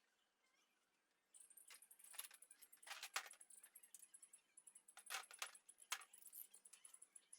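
Small metal parts clinking and rattling as they are handled, starting about a second in: many light, irregular clinks, with a faint steady high-pitched whine underneath.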